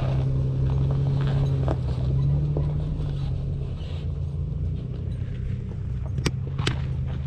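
Off-road SUV engine running steadily at low revs while crawling the trail, with a couple of sharp knocks about six seconds in.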